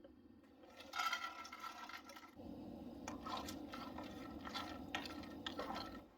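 Rustling and scraping of objects being handled: a loud scratchy burst about a second in, then a run of short scratchy strokes.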